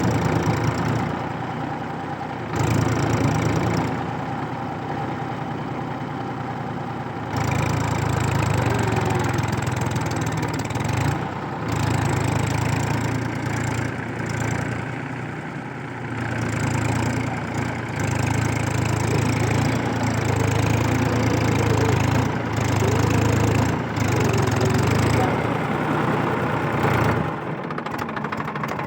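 Massey Ferguson 241 DI tractor's three-cylinder diesel engine running hard in mud, the revs surging up and dropping back again and again as it labours for grip, then easing off near the end.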